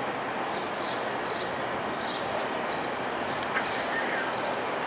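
Steady rumble of a passenger train rolling slowly into a station. A small bird chirps over it, with a short high chirp repeated about every half second.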